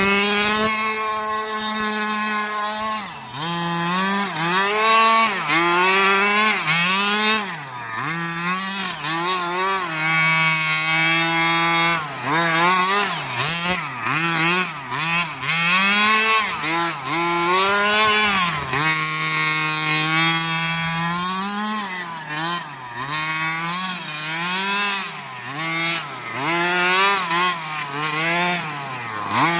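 Small two-stroke 30cc gas engine of a 1/5-scale Redcat Rampage XR Rally RC car, fitted with a JetPro tuned pipe, revving up and down over and over as the throttle is worked. A few times it holds a steady high pitch for a second or more before dropping off again.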